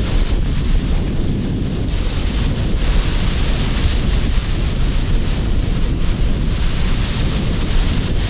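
Strong wind buffeting the microphone with a constant low rumble, over the hiss of sea surf. The wash of the breaking waves swells about three seconds in and again near the end.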